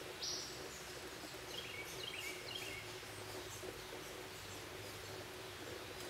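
Wild birds calling: a short harsh rasp about a quarter second in, then a quick series of short chirps around two seconds in, over a steady low background hum.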